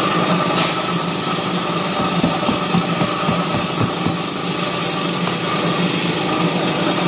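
Air compressor running steadily, with a hiss of compressed air starting about half a second in and stopping after about five seconds: air going into a 16-inch truck tire whose bead has not yet seated on the rim.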